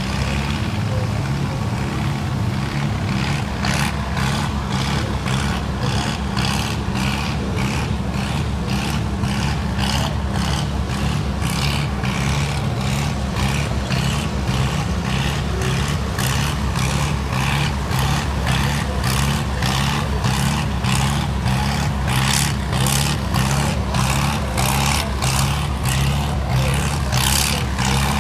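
Farm-stock pulling tractor's engine running hard under load, a steady low engine note with a regular crackle about twice a second that grows stronger toward the end.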